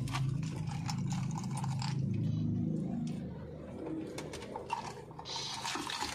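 A man eating with his mouth closed: small wet clicks of chewing over a low, wavering hum, fading after about three seconds. About five seconds in comes a short hiss as he sips milk tea through a plastic straw.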